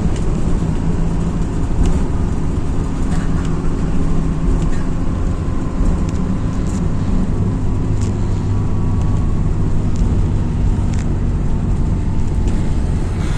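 MAZ-206 city bus heard from inside while driving: a steady low engine drone with road noise, and a few light clicks and rattles.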